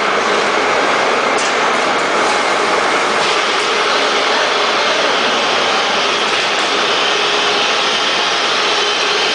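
Automatic packaging machinery, a bag-closing sewing machine line, running with a loud, steady mechanical noise.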